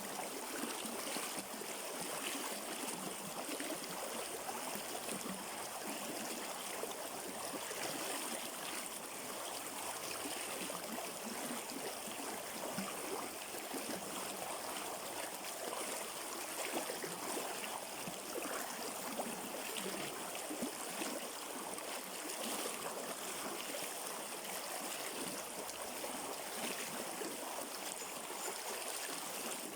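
River water flowing over rocks: a steady rush with small splashes and gurgles.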